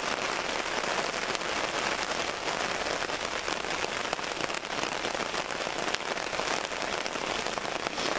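Steady rain pattering: an even hiss of many small drop ticks.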